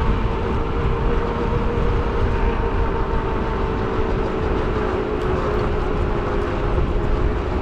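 Riding noise from an e-bike in motion: wind rushing over the microphone and rolling road noise, with a steady whine that slowly sinks in pitch.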